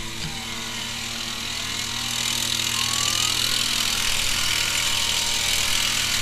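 Vehicle engine and road noise while driving, building gradually louder, with a siren faintly wailing up and down.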